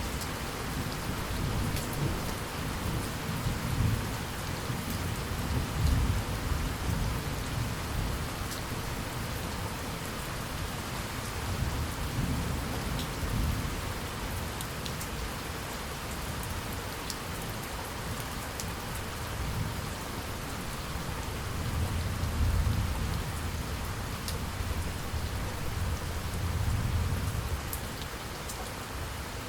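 Steady heavy rain falling, with low thunder rumbling in several long swells, the loudest near the start and again about two-thirds and nine-tenths of the way through.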